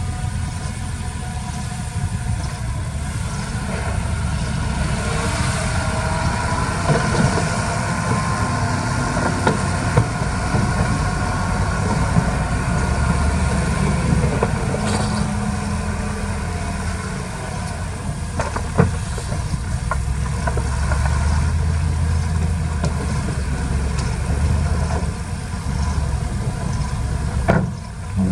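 Diesel engines of heavy earthmoving machinery running steadily, with a few sharp knocks along the way.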